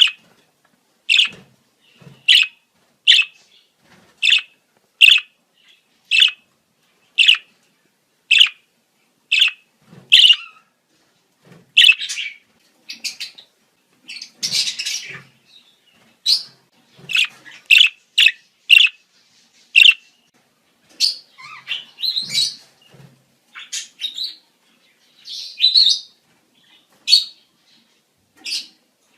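Budgerigars giving breeding-season chirps: a sharp call repeated about once a second, then busier, more varied chirping and warbling from about ten seconds in.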